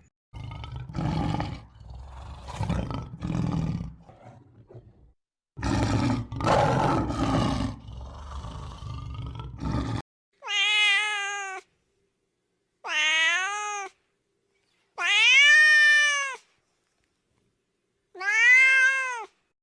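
Rough, growling roars in several bursts over the first half, then a cat meowing four times, each meow about a second long and rising then falling in pitch.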